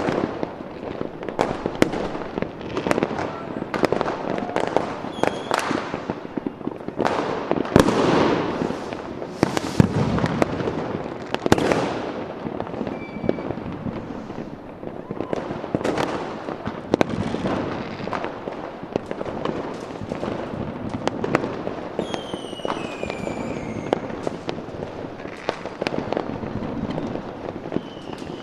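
Fireworks display: a dense, continuous run of bangs and crackling bursts. About two-thirds of the way in, several whistling tones slide down in pitch among the bangs.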